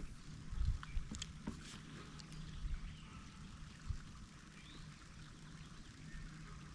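Faint ambience on the water from a kayak: light water trickling with a few soft knocks, most of them in the first second and a half, over a faint steady low hum.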